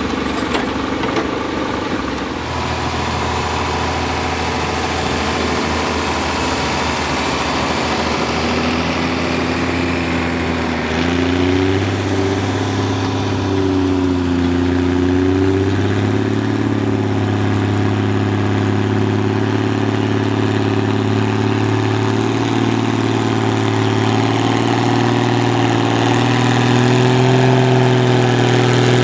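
Antique farm tractor engine running steadily as it pulls a weight sled in a tractor pull. Its pitch steps up about eleven seconds in, wavers briefly, and edges higher near the end.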